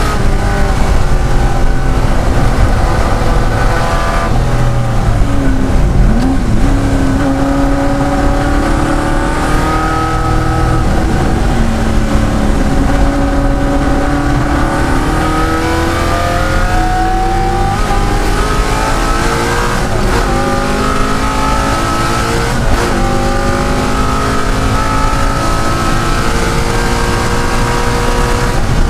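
De Tomaso Pantera's Ford V8 race engine at full throttle, its pitch climbing through the revs and dropping back at each of several upshifts.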